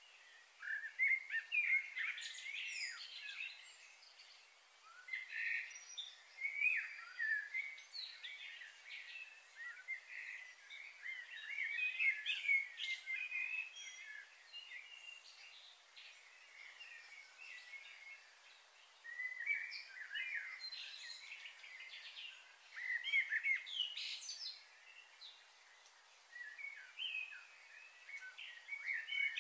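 Small birds chirping and twittering in clusters every few seconds over a faint steady hiss.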